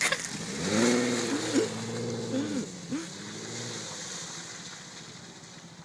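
Volkswagen 4Motion car's engine revving, its pitch rising and falling for about three seconds, then dying away.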